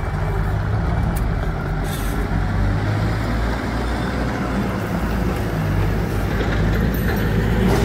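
Diesel engine of a Hidromek 102S backhoe loader running steadily, with a few light knocks.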